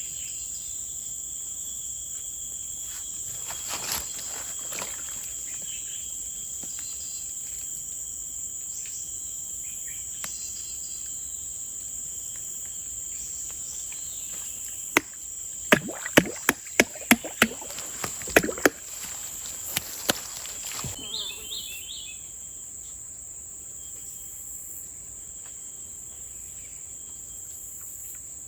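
A steady, high-pitched chorus of insects drones throughout. About halfway through, a quick run of about ten sharp knocks lasts several seconds and is the loudest thing heard.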